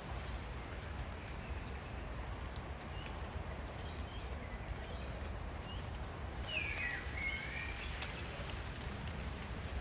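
Steady outdoor background noise with a low rumble, and a few short, gliding bird chirps in a cluster about two-thirds of the way through.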